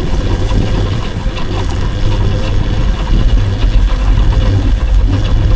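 Riding noise from an electric dirt bike on a dirt path: a loud, steady low rumble of wind and ground noise on the microphone while moving, with no speech over it.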